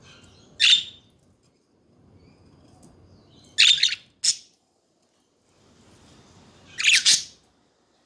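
Pet budgerigars calling: four short, sharp chirps, about a second in, twice just before the middle, and once near the end.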